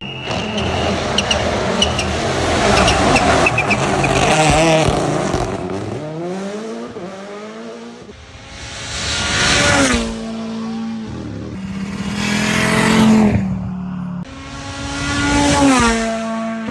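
Rally cars at full throttle on a stage, engines revving hard and dropping with each gear change as they pass in turn. There is heavy tyre noise during the first few seconds.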